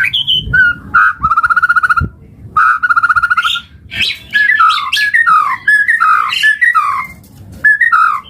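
White-rumped shama (murai batu) singing: two fast, rattling trills, then a run of loud whistled notes that slide down in pitch, with a short pause near the end before the song picks up again.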